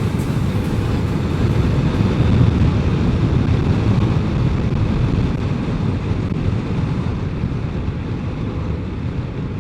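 BMW K1200RS motorcycle under way: the inline-four engine's steady drone mixed with wind rush buffeting the microphone.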